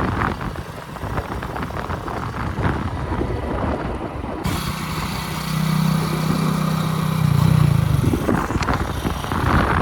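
Diesel engine of heavy machinery running under load. About halfway through, the sound changes abruptly and a steady engine note comes in, rising slightly in pitch before dropping away near the end.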